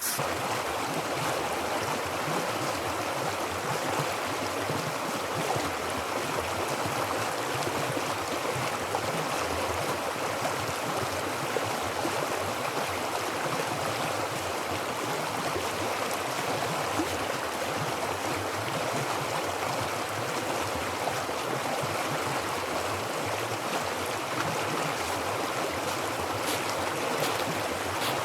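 River water flowing, a steady even rushing that does not change.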